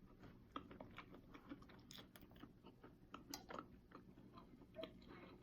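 Faint, close-up chewing: a scatter of soft wet clicks and small crunches from a person eating.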